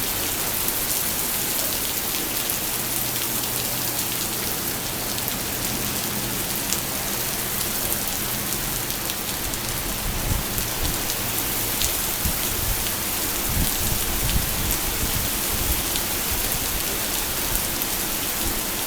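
Heavy rain pouring steadily onto pavement, a dense even hiss of drops, with some low rumbling partway through.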